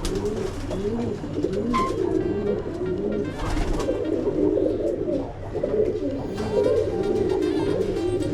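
A flock of domestic pigeons cooing continuously, many low coos overlapping one another.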